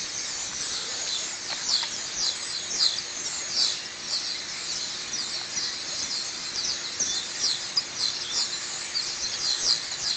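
A large flock of birds in trees, hundreds calling at once: a continuous dense chatter of short, high chirps.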